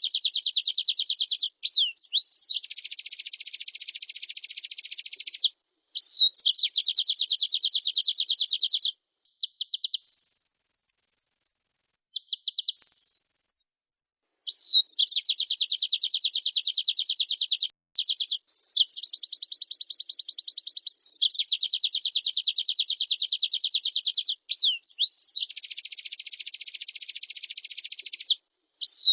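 White-eye (pleci) singing vigorously: long runs of fast, high chattering song lasting a few seconds each, separated by short pauses. About ten seconds in comes a harsher, higher buzzing passage lasting about three seconds, with a brief break in it.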